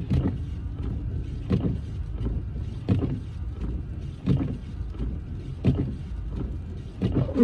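Car windshield wipers sweeping at a steady pace, each stroke a loud noise about every second and a half, over the low steady rumble of the car in motion. They are running constantly to keep falling snow off the windshield.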